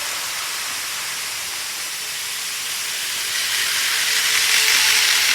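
Model train running along the layout track, a steady rushing hiss of wheels and motor that swells about four seconds in as it draws closer.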